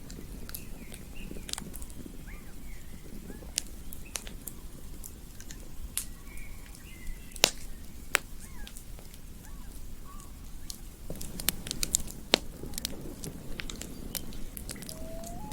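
Wood campfire crackling, with irregular sharp pops over a low rumble of burning, and faint chirping calls in the background.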